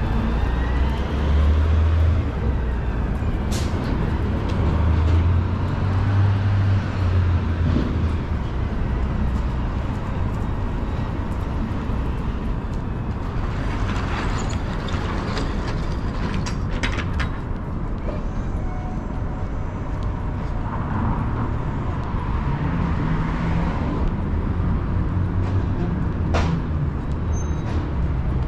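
City street traffic: the low engine rumble of passing cars and larger vehicles, loudest in the first several seconds, over a steady hum of urban noise with a few sharp clicks.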